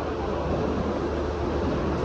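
Mumbai suburban local electric train running, a steady rumble with a low hum underneath.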